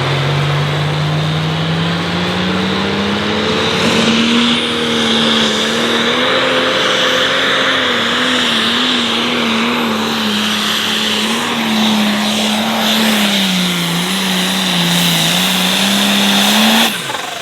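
Turbocharged diesel engine of a light-limited pro stock pulling tractor at full throttle under load during a pull. Its pitch climbs over the first few seconds, holds with small wavers, sags a little, then cuts off suddenly near the end as the throttle is pulled.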